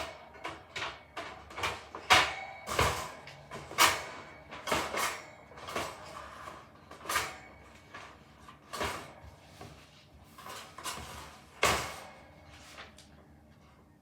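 Knocks on wood, about two a second, uneven in strength, getting weaker and stopping near the end.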